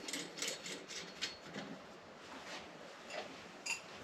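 Scattered light clicks and taps of small metal parts and tools being handled on a blade sharpener during wheel changing and adjustment, with a brief ringing metallic clink near the end.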